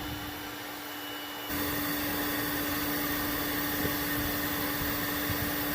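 Toyota 1GR-FE 4.0-litre V6 idling under the hood, a steady noisy hum with one steady tone running through it. The sound gets suddenly louder about one and a half seconds in.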